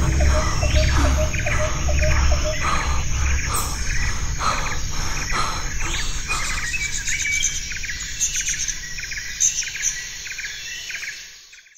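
Tropical jungle ambience: many birds chirping and calling over a steady insect drone, with a low rumble under the first half. The whole sound fades out near the end.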